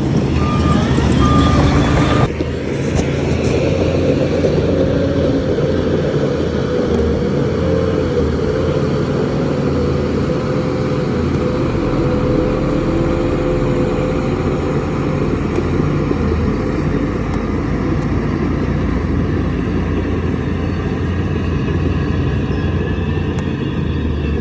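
Heavy diesel machinery engine running steadily at a loud level, with a low rumble. In the first two seconds there is a short repeated beeping, which ends at a sudden cut.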